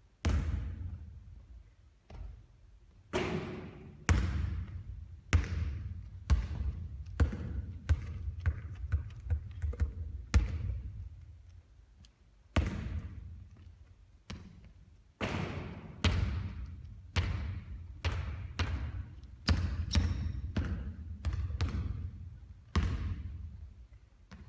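Basketball bouncing on a court floor during three-point shooting: single hard bounces about once a second, with runs of quicker, settling bounces, each echoing.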